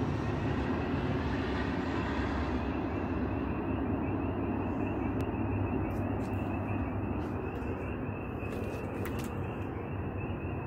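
Train running past out of view: a steady rumble with a thin steady high tone over it, a few faint clicks in the second half, easing off slightly toward the end.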